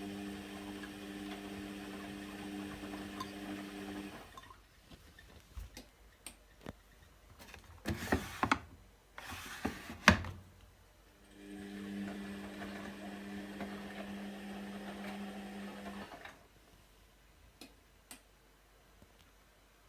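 Atlant washing machine's drum motor in its wash rhythm, on a 60 °C coloured wash: a steady hum for about four seconds, then a pause of several seconds with a few clicks and two louder noisy bursts, then the hum again for about five seconds before it stops.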